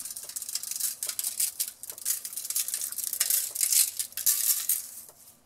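Creole seasoning shaken from a shaker container, the dry granules rattling in a rapid stream of fine high clicks that stops near the end.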